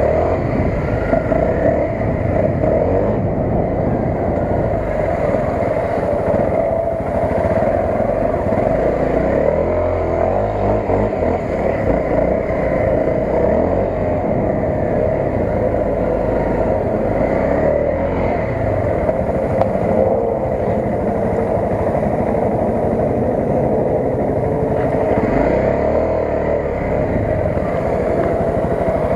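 Honda CRF250 dirt bike's single-cylinder four-stroke engine running continuously while being ridden off-road, its pitch rising and falling with the throttle and gear changes.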